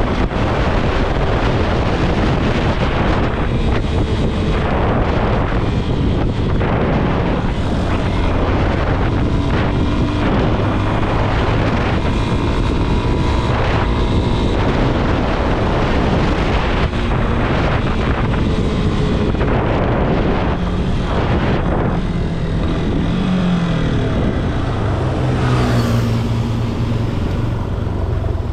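Motorcycles running on the road in a large group, with heavy wind rushing over the microphone. Near the end, one engine's note drops as it slows.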